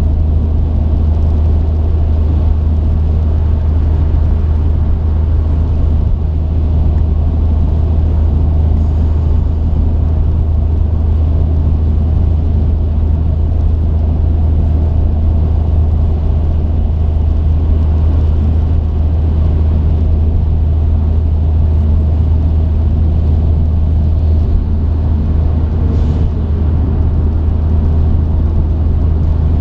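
Truck driving along: a steady low drone of engine and road noise, with no change in pace.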